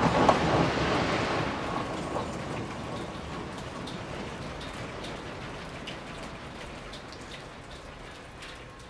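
Rain falling, with a rumble of thunder that slowly dies away.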